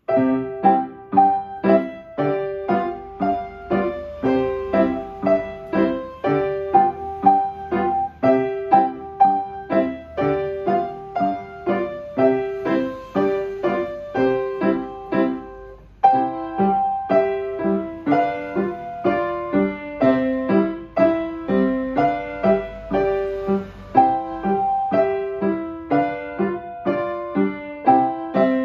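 Piano played four hands: a simple, evenly paced tune of short struck notes over a lower accompaniment, with a brief break about halfway through.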